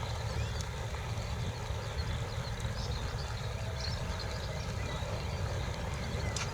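Wind buffeting the microphone in a steady low rumble, with faint small-bird chirps over it.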